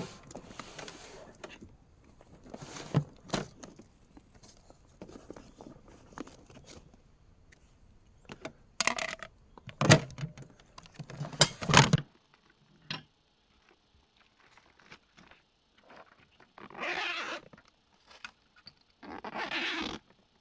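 Handling noise: a run of clinks, rattles and knocks, the sharpest of them from about 9 to 12 seconds in. Near the end come two noisy scrapes, each about a second long.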